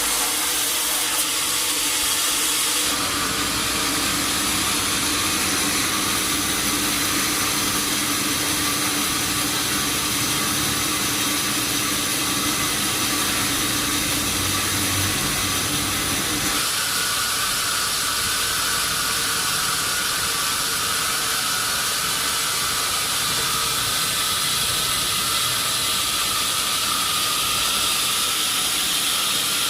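Sawmill saw cutting through a teak log: a steady, high-pitched rushing noise that changes in tone about three seconds in and again about halfway through.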